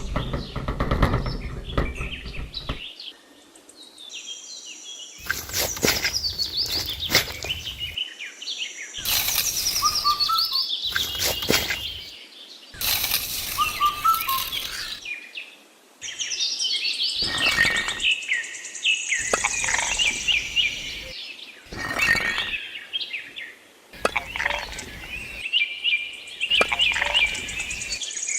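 Birds chirping in quick descending series, over background noise that starts and stops abruptly every few seconds.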